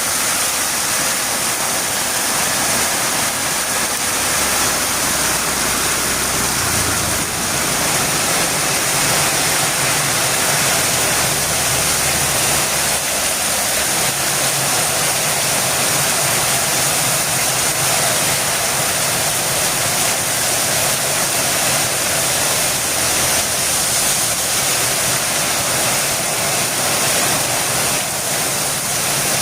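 Heavy rain falling steadily in a dense, even hiss. A low hum joins underneath it from about four seconds in and fades out by about fourteen seconds.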